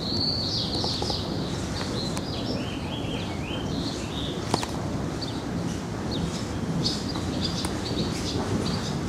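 A songbird singing phrases of high chirps and short descending trills over a steady low background rumble, with one sharp click about halfway through.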